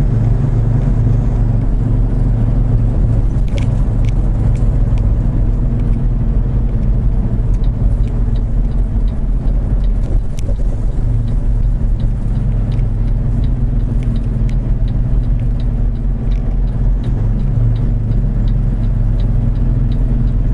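Semi-truck cruising on the highway: a steady low engine drone with road noise, and scattered light ticks and rattles.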